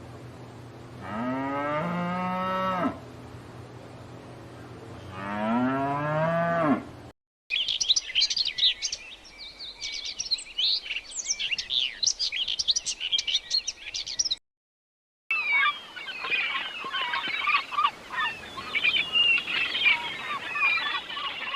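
Two long lowing calls from a large animal, each rising then falling in pitch. After a cut comes dense, high-pitched chirping of many small birds, and after another cut a busier, lower chorus of bird chirps.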